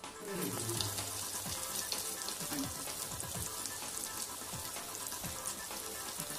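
Prawn fritters sizzling and crackling in hot oil in a shallow frying pan. The sizzle starts a moment in, with music underneath.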